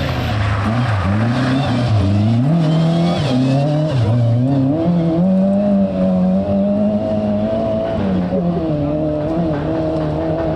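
Rally car engine revving hard through the gears: its pitch climbs and drops back several times, then holds at fairly steady high revs. Tyres squeal briefly a few seconds in.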